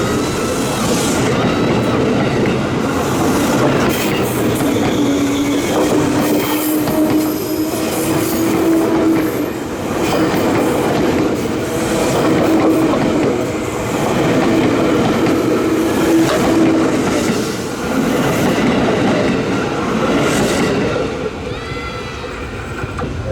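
An Indonesian long-distance passenger train passing close by, its wagons' wheels clattering rhythmically over the rail joints under a steady rumble. A sustained tone sounds through the middle, then the noise eases off near the end as the train goes by.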